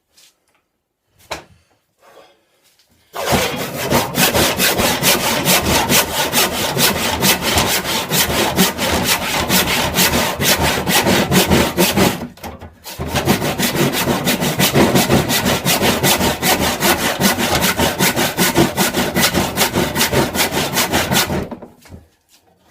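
A hand saw cutting wood in quick, steady back-and-forth strokes. It starts about three seconds in, breaks off briefly about twelve seconds in, then runs on and stops near the end.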